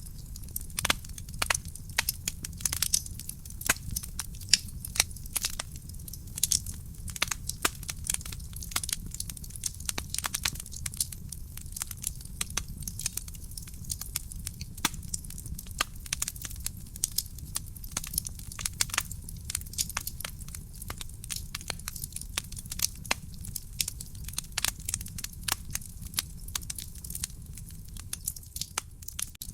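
Wood fire in a fireplace crackling, with dense, irregular snaps and pops over a low steady rumble.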